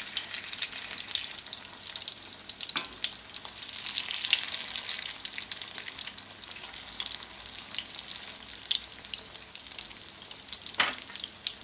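Chicken and potato cutlets, dipped in egg, sizzling and crackling steadily in shallow oil in a frying pan on a low heat. There is a faint click about three seconds in and a sharper, louder one near the end.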